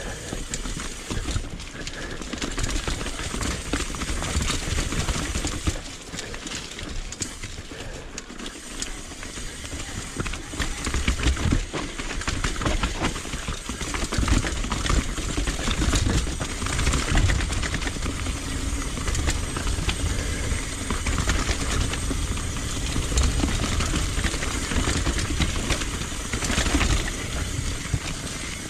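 Mountain bike riding down a rocky technical trail: a continuous rumble of tyres over rock with the bike's frame and parts rattling and knocking, getting rougher and heavier about ten seconds in.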